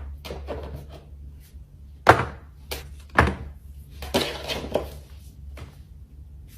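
A string of separate knocks and clacks from small hard objects being handled and set down, the loudest about two, three and four seconds in, over a low steady hum.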